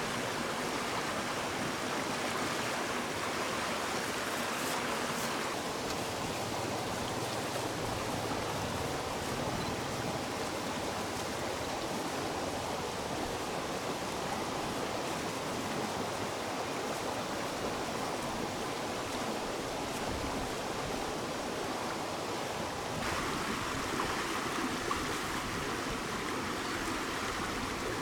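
Rushing stream water, a steady noise whose tone shifts twice, about five seconds in and again near the end.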